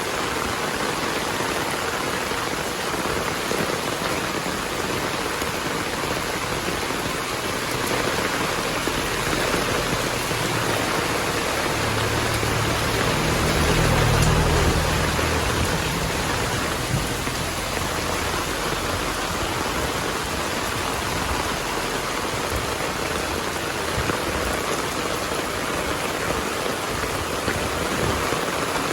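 Heavy rain falling steadily. Around the middle, a low rumble of distant thunder swells and fades.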